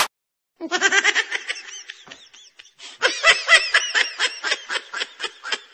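Laughter in quick, repeated bursts, starting about half a second in, easing off briefly before three seconds, then picking up again more densely.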